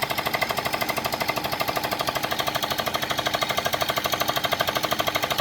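Rapid-impact air hammer driving a pile: a fast, steady, even train of hammer blows that runs without a break.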